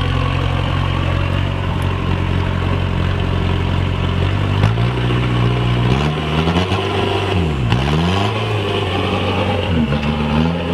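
Suzuki Samurai's Kubota turbo diesel engine running at a steady pace, then revving up about halfway through. The revs drop and climb again sharply twice near the end.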